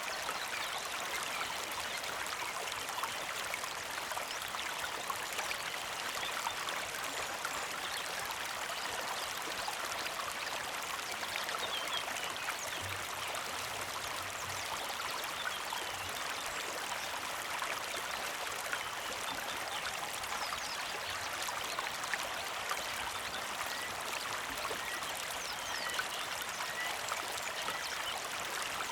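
Small creek flowing steadily, an even trickling and babbling of water over stones. A bird chirps faintly several times near the end.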